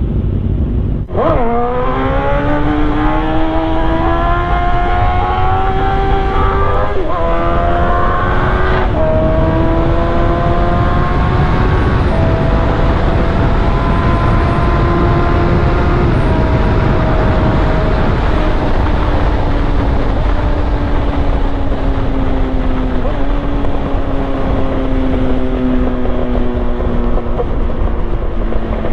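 Yamaha R1 inline-four engine accelerating hard, its pitch climbing through several quick upshifts in the first half, then settling into a steady cruise with the pitch slowly falling. Heavy wind rush runs underneath.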